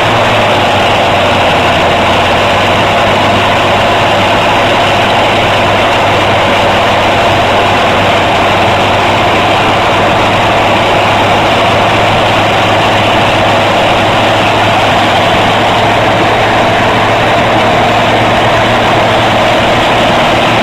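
Tractor engine running steadily at a constant speed, its pitch unchanged throughout.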